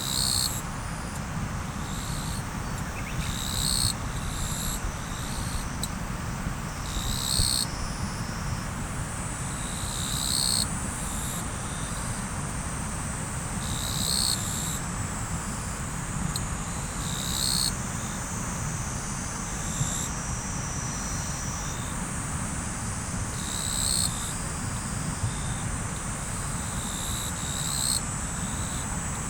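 Riverside ambience: steady rushing of flowing river water, with insects trilling continuously and a short high-pitched call repeating every two to four seconds.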